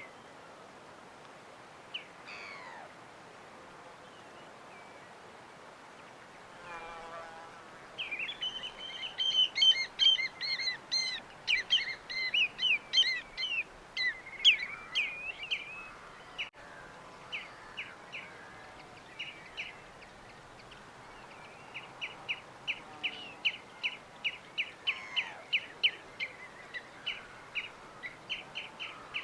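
Small birds chirping over a steady faint hiss: a burst of quick, overlapping high chirps about a third of the way in, then a long rapid run of short repeated chirps, about four a second, through the last third.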